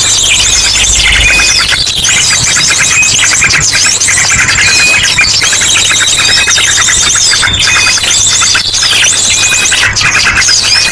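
Bird-lure recording: a dense, unbroken chorus of many small birds chattering and trilling over one another, layered with ashy drongo calls, among them a long, fast trill.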